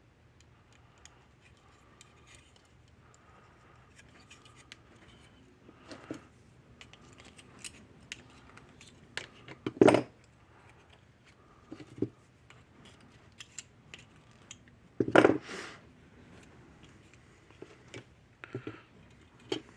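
Hand tools and small parts being handled on a workbench during circuit-board repair: scattered light clicks and snips, with two louder clacks about ten and fifteen seconds in.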